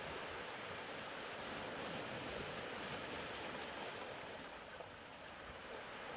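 Soft, steady wash of ocean surf as a background sound bed. It eases a little about five seconds in, then swells again.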